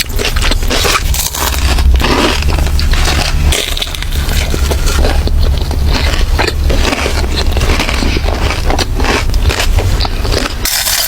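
Close-miked mukbang eating: a run of crunching bites and chewing of crunchy food, irregular and one after another.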